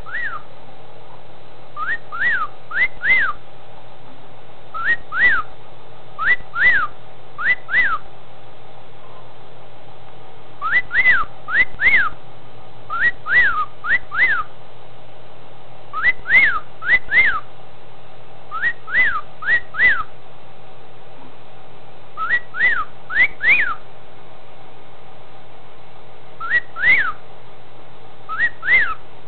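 Male cockatiel whistling his wolf whistle over and over: clusters of two or three quick notes, each rising and falling in pitch, with short pauses between clusters. A faint steady hum runs underneath.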